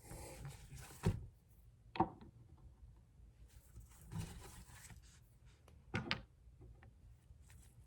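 Glass nail polish bottles being handled: a few sharp taps, two of them close together near the end, and stretches of scratchy rubbing on the bottles in between.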